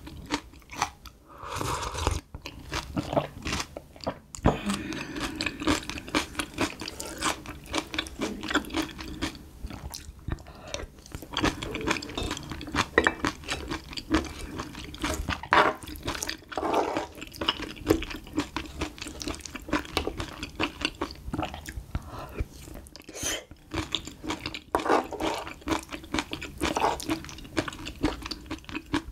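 Close-miked chewing of spicy stir-fried small octopus with noodles and bean sprouts: wet, sticky mouth sounds full of small irregular clicks, with occasional crunches.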